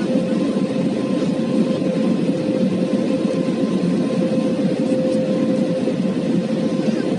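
Airbus A320 in flight after takeoff, heard from the cabin: a steady rush of engine and airflow noise with a constant hum running through it.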